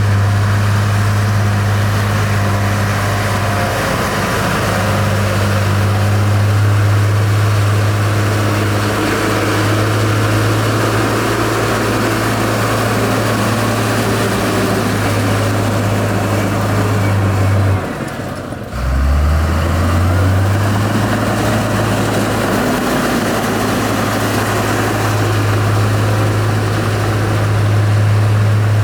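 Heavy construction machinery's diesel engine running steadily with a low hum. About two-thirds of the way through the sound briefly dips and drops in pitch, then comes back to the same steady running.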